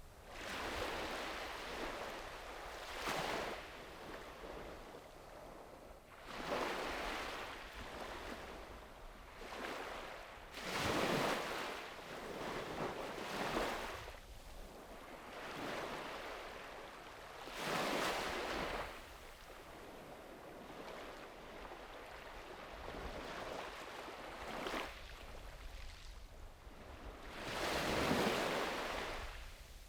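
Sea waves washing onto a beach, one swell of surf every three to five seconds, each rising and then fading as the water spreads up the shore.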